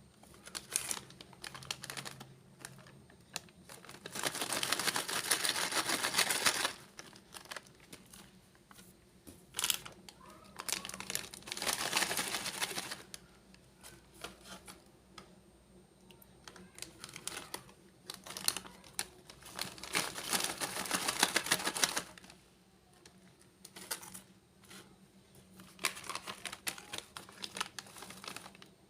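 Plastic snack packets crinkling as they are handled, in four bursts of a few seconds each with scattered clicks and rustles between.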